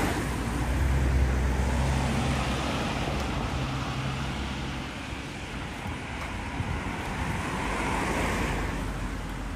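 Road traffic: cars passing, one right at the start with a low engine hum that lasts to about five seconds in, and another that swells and fades about eight seconds in.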